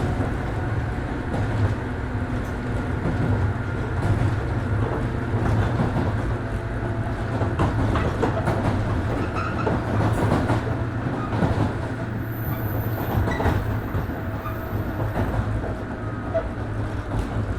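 103 series 1500-subseries electric multiple unit running, heard inside the passenger car: a steady low rumble of motors and wheels, with the clack of wheels over rail joints.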